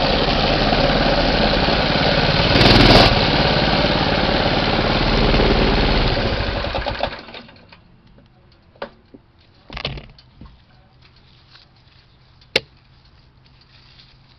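Minibike's small engine running steadily, then fading out about seven seconds in. After that there are only a few faint clicks and knocks.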